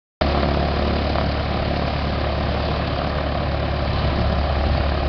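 An engine idling steadily, with a strong low hum under a broad rushing noise.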